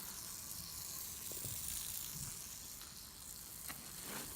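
Steady faint hiss of background noise with a few soft clicks.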